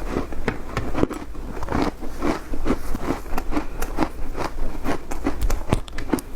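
Ice being bitten and chewed close to the microphone: a fast, irregular run of crunches and crackles.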